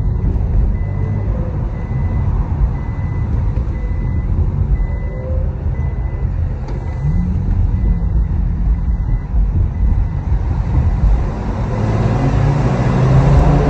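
Infiniti Q50's engine heard from inside the cabin, running steadily at low speed over road noise, then revving up as the car accelerates in the last couple of seconds. Through the first two-thirds, a short high beep repeats at an even pace.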